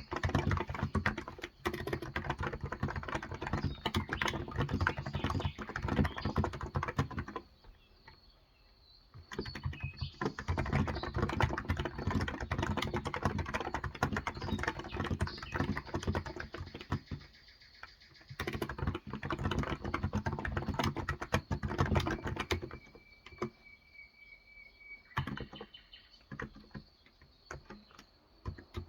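Typing on a Cox Endeavor electro-capacitive (Topre-style) tenkeyless keyboard with light 35 g switches: fast runs of soft keystrokes in bursts, with pauses about a quarter of the way in and again near the end. A bird chirps faintly during the later pause.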